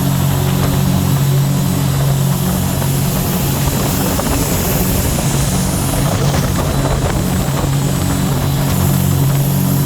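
Scarab 165 ID jet boat's Rotax 1503 4-TEC three-cylinder engine running steadily under way, a loud, even drone over a constant rush of wind noise.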